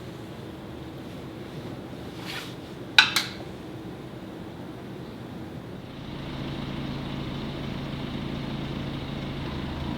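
Two sharp knocks close together near the middle, over a steady low mechanical hum. About two-thirds of the way in the hum steps up and turns into a steady car engine idle.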